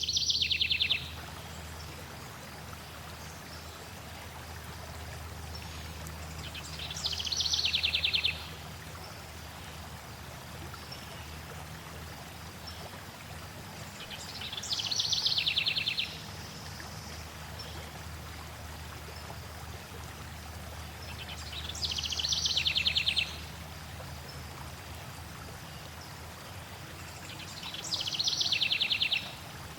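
A songbird sings a short, fast trill that falls in pitch, repeated five times at even intervals of about seven seconds. Under it runs a steady sound of flowing water.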